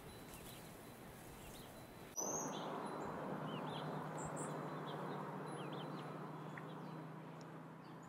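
Scattered short bird chirps over a steady outdoor background hiss. About two seconds in, the background suddenly gets louder and a low steady hum comes in under the chirps.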